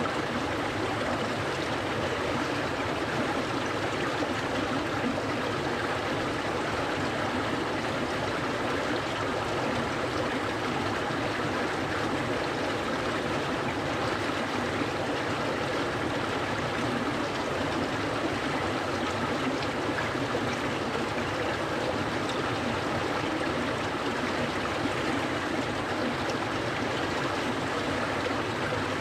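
Clear stream of cold water running steadily over its bed, an even rushing and burbling with no breaks.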